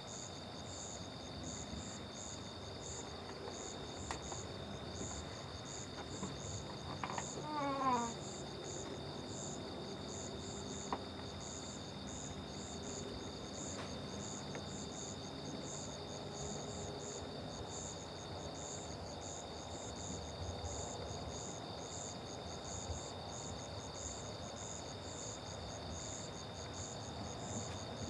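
Night chorus of crickets and other insects: a steady high trill with an evenly pulsing chirping above it. About seven seconds in, a short call of notes stepping down in pitch cuts through.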